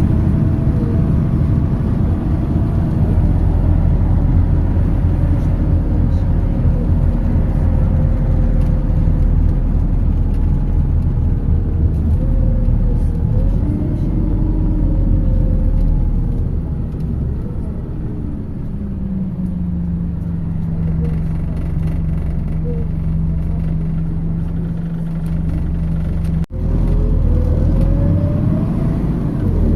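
MAZ 206.067 city bus heard from inside while driving: a steady engine and road rumble with whining tones that slide up and down in pitch as the bus changes speed. About two-thirds of the way through it settles to a steadier low hum, then after a brief drop-out near the end the whine rises again as the bus speeds up.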